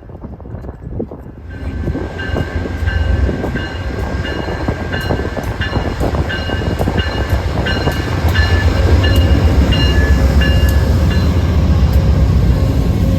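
Train passing close by, its heavy low rumble building about a second and a half in and staying loud, while a locomotive bell rings steadily about twice a second.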